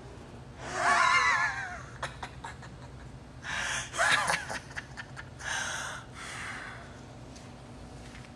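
A man's theatrical villain's laugh in three breathy, gasping bursts with a wavering pitch, about a second, four seconds and six seconds in.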